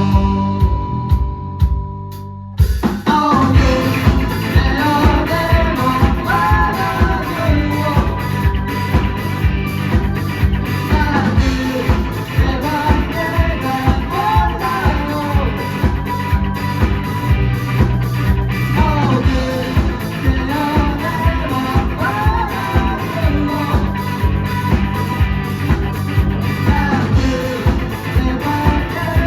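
Live rock band playing with drum kit, guitars and bass, and a singer's voice over them. A chord is held for about two and a half seconds, then the full band comes back in with a steady drum beat and the vocal melody.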